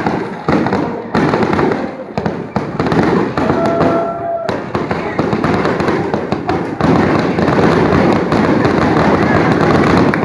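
Fireworks finale: aerial shells bursting in rapid, overlapping bangs, building to a near-continuous barrage about seven seconds in.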